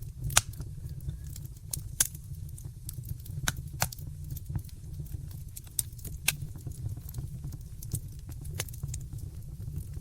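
Wood fire crackling in a fireplace: irregular sharp pops and snaps over a steady low rumble of the burning fire, the loudest pop just after the start.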